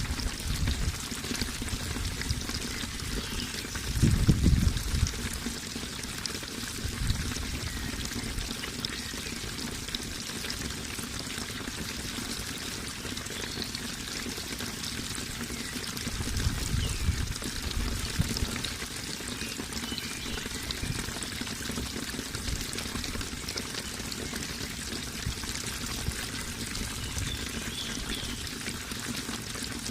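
Running water pouring and trickling steadily, with a louder, deeper gush about four seconds in and another around seventeen seconds.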